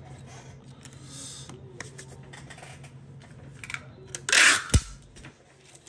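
Small clicks and taps of repair tools on a shattered iPhone 14 display as it is worked loose, then about four seconds in a short, loud scraping burst followed by a sharp knock.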